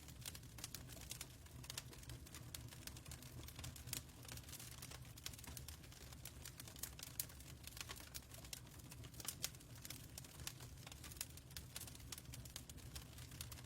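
Fireplace crackling quietly: irregular, closely spaced pops and snaps over a low steady rumble of the fire.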